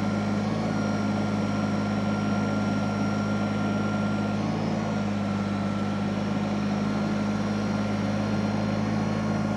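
Tractor engine running steadily at a constant speed, with a faint steady high whine over its low drone.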